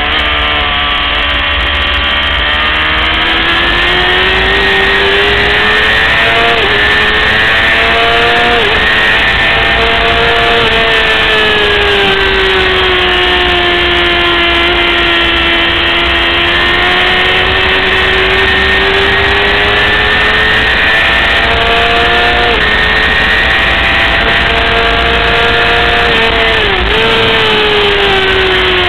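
600cc racing motorcycle engine held at high revs, its pitch rising and falling steadily with the throttle, broken by a few quick dips where gears are changed.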